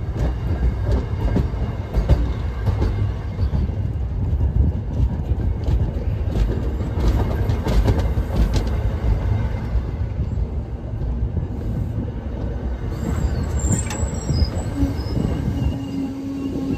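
MBTA yard train rolling past: a heavy, steady rumble with sharp clicks of wheels over rail joints and brief high wheel squeals. A steady tone comes in near the end.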